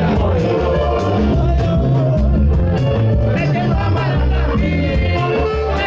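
Band playing a song with singing over a steady beat, with a pulsing bass and regular cymbal ticks.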